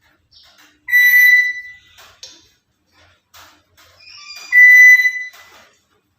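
Black-capped lory giving two loud, steady whistles, each lasting under a second: one about a second in and one near the end. Faint short chirps and scratchy sounds come between them.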